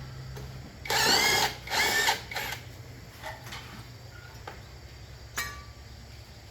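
A small motor whines in two short bursts about a second in, its pitch rising and falling back in each, over a steady low hum, followed by a few faint clicks.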